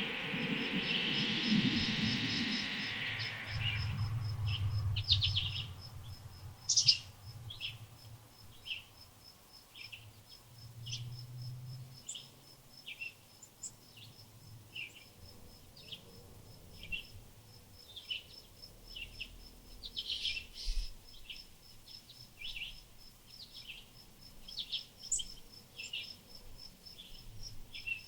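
Small birds giving short chirps at irregular intervals, over an even train of high-pitched insect pulses that keeps a steady beat. A louder rushing noise fills the first few seconds, then fades.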